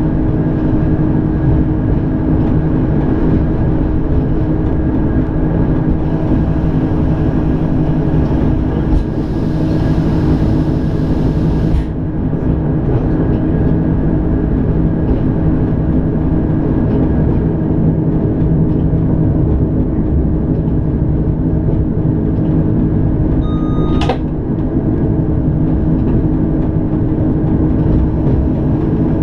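Electric rack-railway train running steadily uphill, heard from inside the driver's cab: a loud, even rumble of the drive with several steady hum tones over it. A high hiss comes in after about six seconds and cuts off suddenly about six seconds later, and one sharp click sounds about five seconds before the end.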